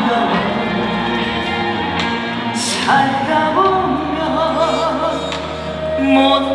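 Live band music: an instrumental passage of a trot song, with a lead melody in strong vibrato over steady bass.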